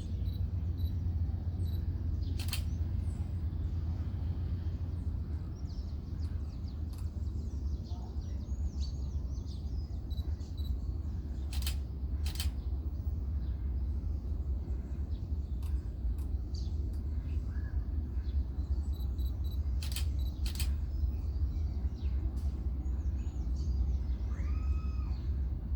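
Birds calling and chirping over a steady low rumble, with a few sharp clicks.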